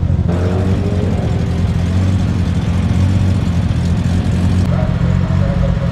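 A sports car's engine running, a deep, steady rumble with a brief shift in pitch about half a second in.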